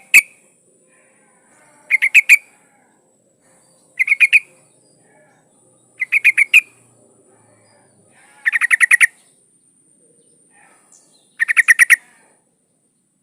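Yellow-vented bulbul (trucukan) calling in six short bursts of rapid chattering notes, roughly every two seconds, the last two bursts longer. The uploader presents it as a female calling a male.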